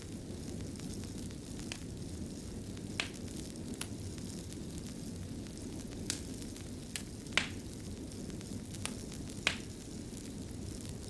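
Wood fire crackling in a fireplace: a steady low rumble of burning with a handful of sharp, scattered pops, the loudest a little past the middle.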